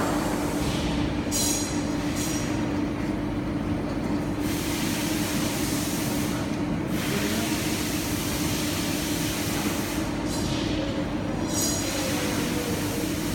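BL-S360 mini CNC machining center running through a tapping cycle: a steady machine hum under a hiss that breaks off briefly a few times.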